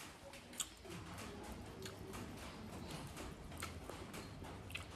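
Faint eating sounds: soft chewing with a few sharp mouth clicks and smacks, spaced about a second apart, over a low steady hum.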